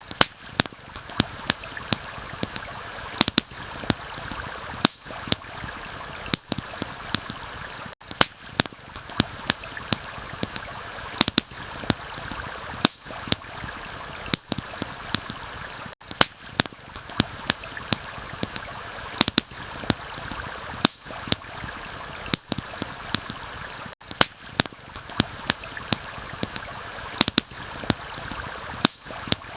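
Steady rushing of a flowing stream, with the frequent sharp crackles and pops of a wood campfire over it.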